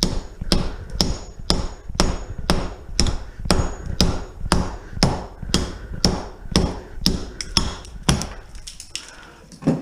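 Repeated hammer blows on a steel pipe, about two a second with a brief metallic ring, breaking off a section that can't be cut; the blows thin out near the end.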